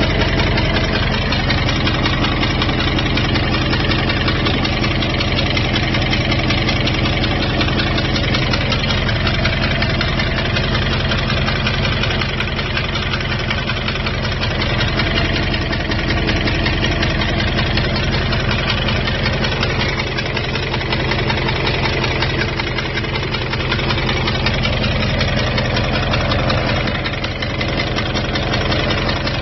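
2002 Jeep Grand Cherokee WJ's 4.7-litre V8 idling steadily with a fast, even ticking noise, which the owner suspects is an exhaust manifold coming loose.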